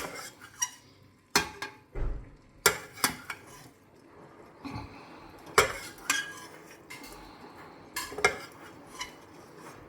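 Metal cooking utensils clinking and scraping against a frying pan and dishes, a dozen or so scattered knocks at an uneven pace, as cooked guanciale is lifted out of the pan.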